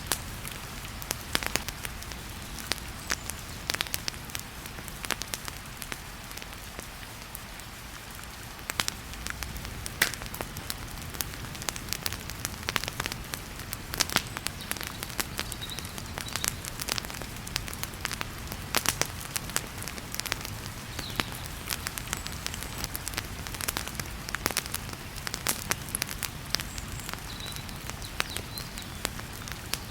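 Wood fire crackling and popping in a fireplace with sharp, irregular snaps, over a steady hiss of heavy rain.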